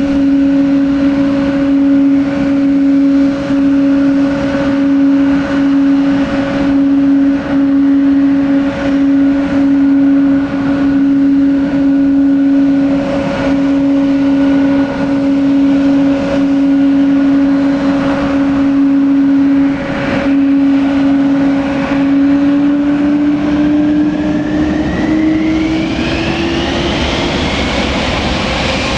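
Boeing 777-200 jet engines whining steadily at low power, then spooling up with a rising whine over the last several seconds.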